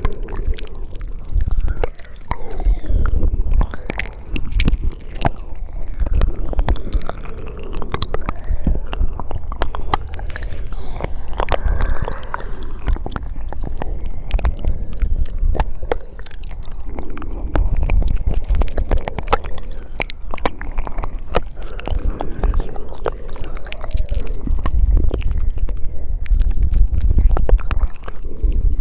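Close-miked ASMR mouth sounds: a dense run of wet clicks and smacks from lips and tongue, over a low rumble that swells and fades in stretches.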